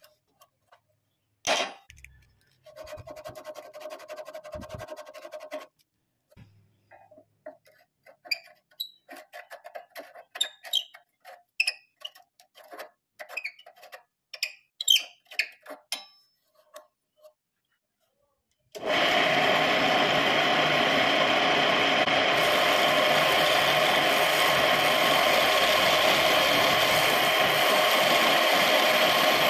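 Scattered short knocks and brief pitched blips, then about two-thirds through a homemade wood lathe switches on and runs steadily with a loud, even hum.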